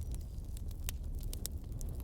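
Burning logs crackling, with frequent sharp pops over a steady low rumble of the flames. The strongest pop comes about a second in.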